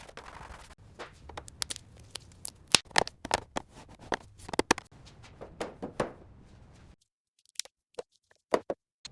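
Irregular sharp clicks, taps and scrapes of hand work on small parts, several a second. They stop about seven seconds in, and a few single clicks follow near the end.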